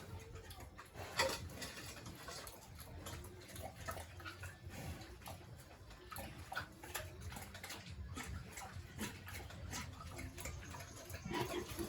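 Pigs in a pen grunting softly now and then, amid scattered clicks and knocks.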